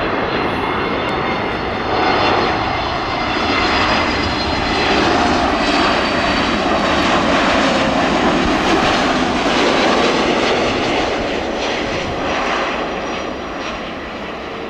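Jet engines of an Airbus A321neo airliner arriving to land at close range: a loud, steady rush with a faint whine, swelling through the middle and easing slightly near the end.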